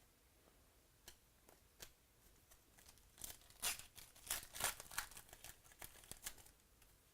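Foil trading-card pack wrapper crinkling and tearing, first a few scattered crackles, then a dense run of them from about three seconds in that stops shortly before the end.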